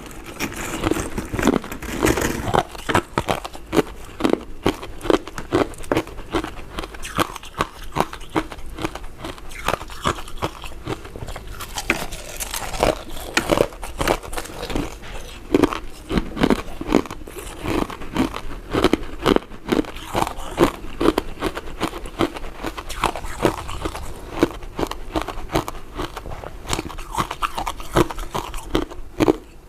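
A person chewing and biting powder-coated mint sweets close to the microphone: a dense, irregular run of quick mouth clicks and crunches, several a second.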